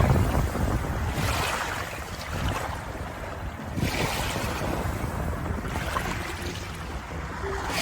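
Sea waves washing in, a surge of rushing water about every two seconds that swells and ebbs.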